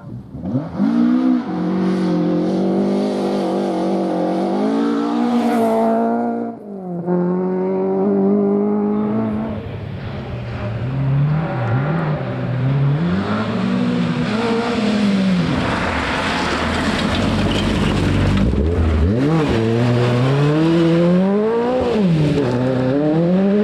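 Rally car engine at full throttle on a forest stage. It climbs and holds high revs, with a sharp gear change about six and a half seconds in, then the revs rise and fall repeatedly as it brakes and accelerates through corners, over a hiss of tyres on the stage surface.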